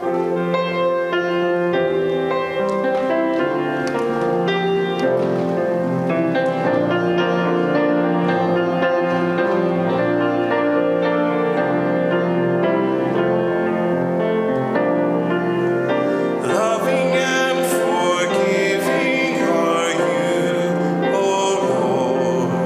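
Church music played on a keyboard instrument in sustained chords; about three-quarters of the way through, singing voices join in.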